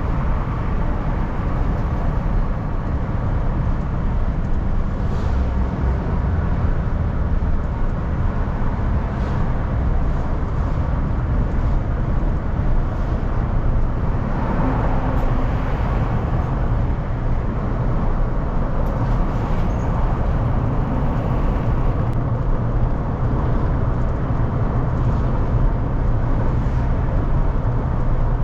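Car driving, heard from inside the cabin: a steady low engine and road rumble with tyre noise, swelling briefly about halfway through.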